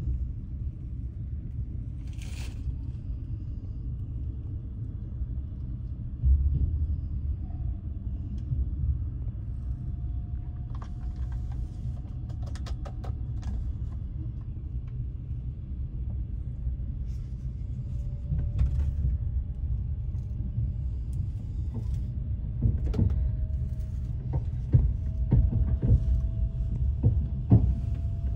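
Passenger train running: a steady low rumble with the clack of the wheels over rail joints, the knocks coming thicker near the end. A faint whine rises slowly in pitch.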